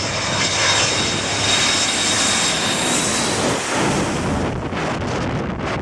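Airplane engines during a low pass: a dense engine rush with a steady high whine, loudest about one to three seconds in, then easing. Near the end, wind buffets the microphone.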